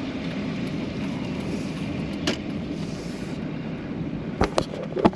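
Vehicle engine running steadily with a low hum, heard from inside the cab, with a few sharp clicks in the second half.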